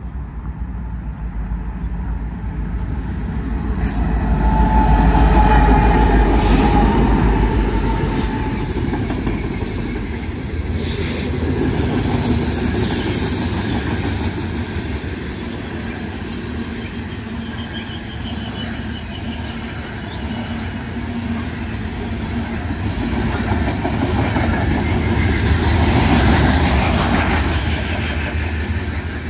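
Loaded coal train passing close by: the lead BNSF EMD SD70ACe diesel locomotives go by with a heavy low rumble, loudest about five seconds in. After them come the loaded coal hopper cars, rolling past with steady wheel-and-rail noise.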